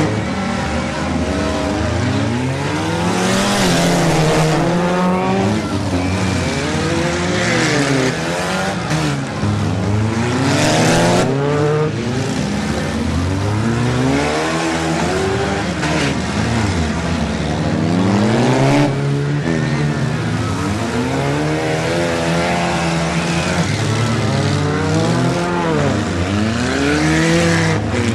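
Several demolition derby cars' engines running and revving at once, their pitch rising and falling constantly as the cars accelerate and ram each other. A few louder bursts of noise stand out about three, eleven, nineteen and twenty-seven seconds in.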